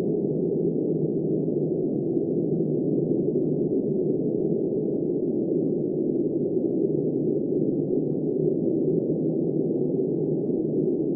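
Steady, muffled rush of wind noise, deep and even throughout, with no gusts, rain patter or other sounds.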